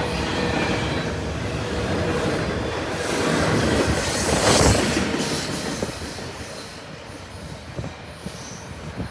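Freight train cars rolling past close by: a dense rumble of wheels on rail with clacking over the rail joints. It is loudest about four and a half seconds in, then fades from about six seconds as the last car passes and the train draws away.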